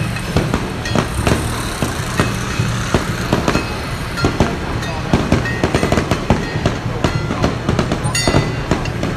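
Fireworks going off in a dense run of sharp, irregular cracks and bangs, several a second, over a steady low rumble.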